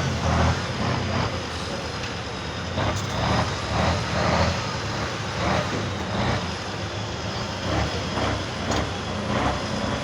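A competition trial truck's engine working through an off-road section, its revs and loudness rising and falling over and over as the driver works the throttle.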